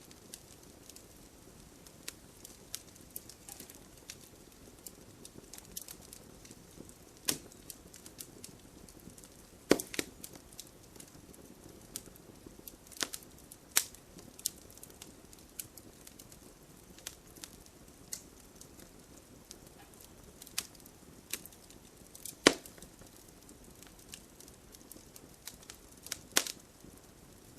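Campfire of burning logs crackling: irregular sharp pops and snaps over a low steady hiss, the loudest pops about ten seconds in and again about twenty-two seconds in.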